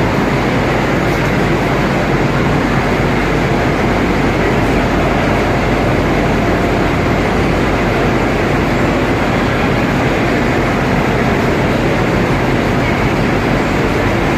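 Steady, loud rumbling noise of a moving vehicle, running evenly without a break.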